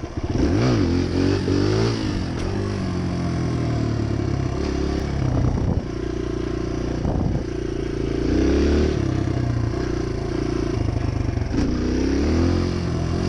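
Dirt bike engine running while riding, its pitch rising and falling several times as the throttle is opened and closed.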